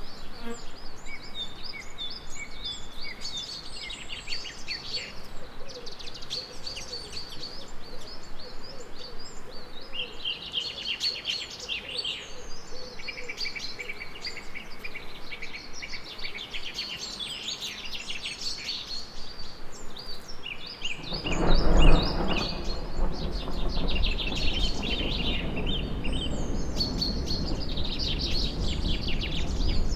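Many small birds chirping and singing at once, in quick overlapping trills. About two-thirds of the way through a low rumble of thunder rolls in, loudest just after it starts, and keeps grumbling under the birdsong to the end.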